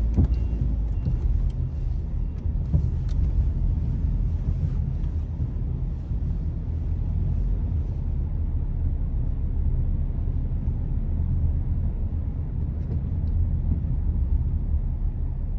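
A car driving: a steady low rumble of engine and road noise, with a few faint ticks in the first few seconds.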